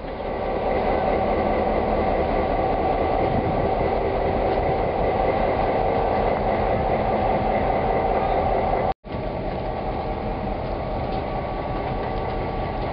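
Leadville, Colorado & Southern tourist train running on the rails: a steady loud rumble with several held, ringing tones over it. The sound drops out abruptly for an instant about nine seconds in, then carries on a little quieter.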